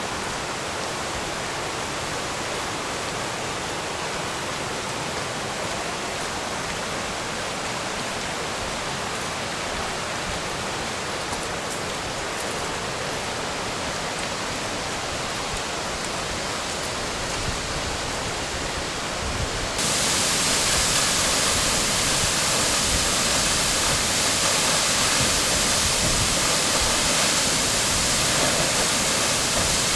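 Waterfall rushing steadily, a continuous wash of falling water. About two-thirds of the way through it suddenly becomes louder and brighter.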